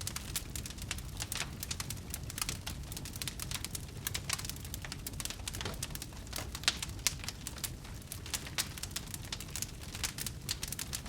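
Wood fire crackling in a fireplace: dense, irregular sharp pops and snaps over a steady low rumble of the burning fire.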